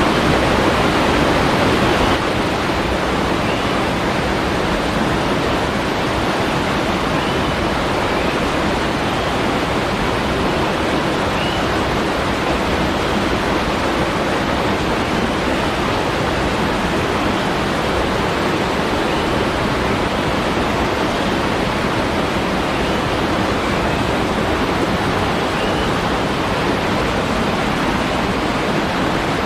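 Falling water rushing in a steady, dense hiss, like a waterfall or shower, easing slightly in level about two seconds in.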